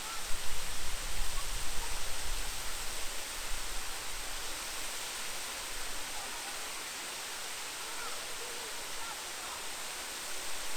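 Steady rushing of a large waterfall, a dense even hiss of falling water. A low, irregular rumble buffets the microphone during the first few seconds.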